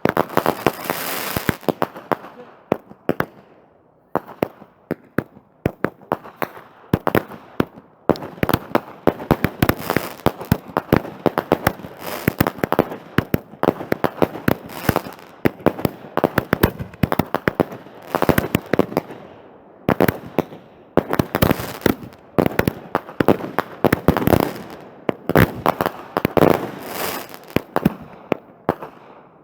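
Fireworks display: rapid volleys of bangs and crackling pops from aerial shells, in dense clusters with a short lull a few seconds in.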